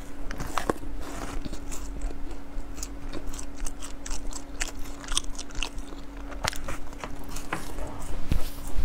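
Close-miked biting and chewing of a crumbly matcha cranberry snack ball, with many small, irregular crunches.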